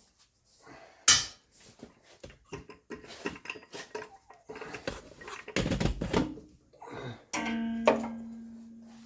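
Clinks and knocks of tools and metal parts being handled. About seven seconds in, one sharp metal strike rings on with a clear tone that slowly fades.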